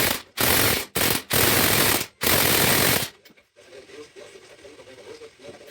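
Impact wrench hammering in a run of short bursts, five of them, stopping about three seconds in.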